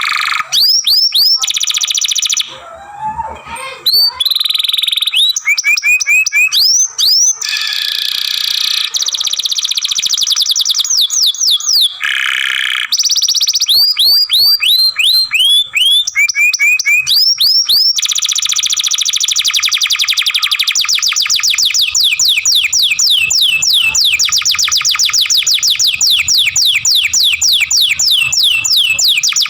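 Domestic canary singing loudly: quick phrases of repeated whistled notes and sweeping slurs, then a long, very rapid trill from a little past halfway to the end.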